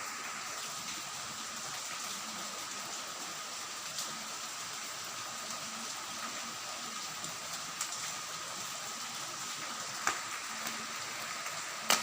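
Steady rain falling, with a few sharp taps now and then.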